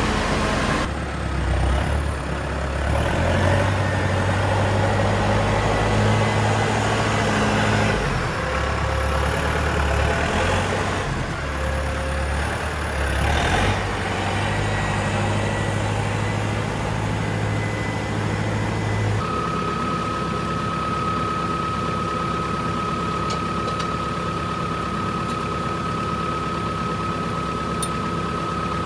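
Farm machinery engine running, its note rising and falling in steps as it works. About two-thirds of the way through it changes abruptly to a steadier engine sound with a steady high whine.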